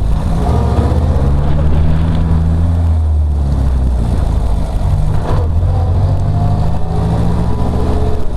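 Car engine running under way, heard from an open car with no hood. The engine note drops away briefly about three and a half seconds in, then pulls again.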